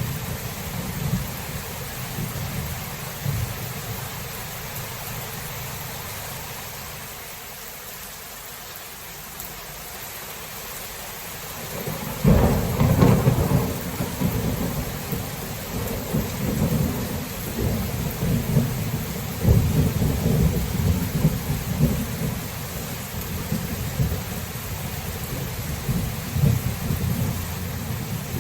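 Thunderstorm: steady rain with rumbling thunder. The rumble dies down, then a sudden loud peal of thunder breaks about twelve seconds in and keeps rolling, swelling again twice before the end.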